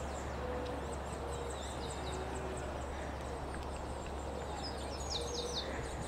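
Birds calling outdoors: a run of short, low, hooting notes repeating every half second or so, with a burst of high chirps about five seconds in, over a steady low rumble.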